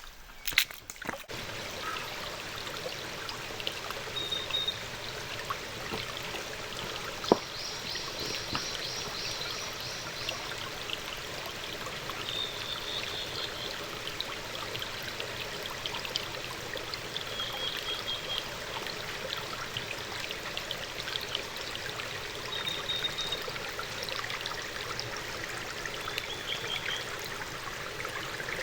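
Steady rushing and trickling of running water, with a few short high chirps and one sharp click about seven seconds in.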